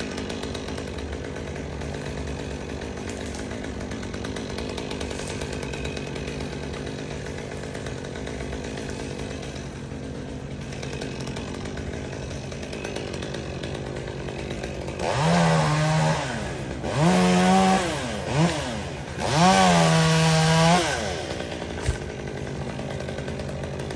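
Two-stroke chainsaw idling steadily, then throttled up three times in quick succession, each rev rising, holding for a second or so and dropping back to idle. A single sharp click follows near the end.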